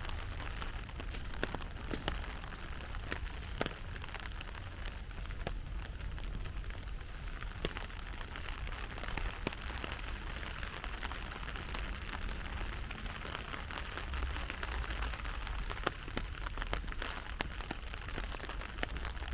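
Heavy rain falling steadily, an even hiss with many scattered sharp taps of drops.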